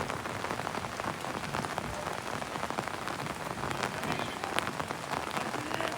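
Steady rain falling, with many separate drops ticking close by and one sharper drop hit about four and a half seconds in.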